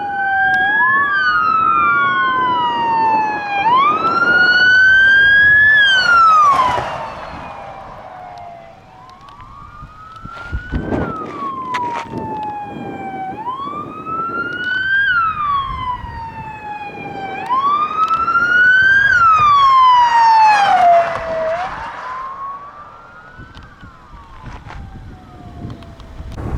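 Emergency vehicle sirens on a slow wail, the pitch climbing and falling every few seconds, at times two sirens overlapping out of step. They grow loud twice and fade in between.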